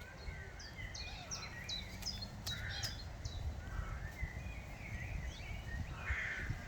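Birds calling outdoors: a string of short, high chirps, with a couple of harsher calls, over a steady low rumble.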